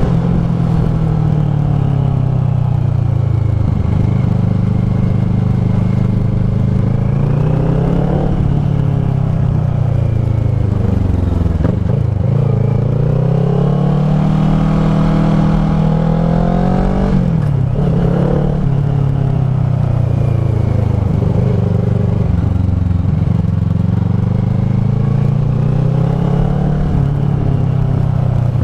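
Kawasaki ER-6f's 649 cc parallel-twin engine through a Leo Vince SBK slip-on exhaust, running under way. Its pitch rises and falls again and again as the throttle is opened and eased off.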